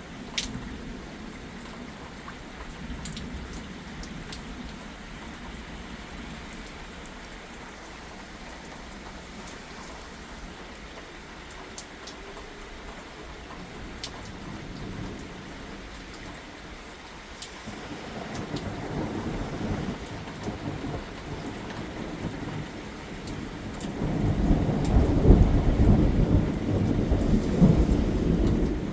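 Steady rain falling, with scattered sharp drips. About two-thirds of the way in, a low rumble of thunder builds, swelling into a long, loud roll in the last few seconds.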